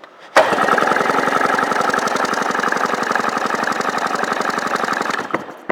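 Sea-Doo 717/720 two-stroke twin engine being cranked over for a compression test on its PTO-side cylinder, a steady fast rhythmic chugging for about five seconds that starts and stops abruptly, followed by a click.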